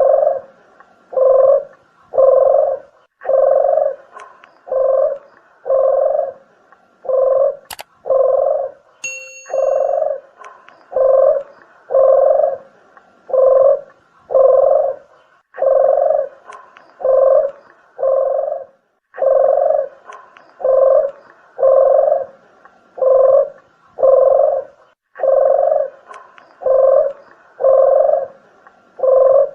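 Deruk or puter geni dove (Javanese collared dove) cooing: a long, regular series of short low coos, a little more than one a second, with a few slightly longer gaps. A click and a brief high whistle-like note come about a third of the way through.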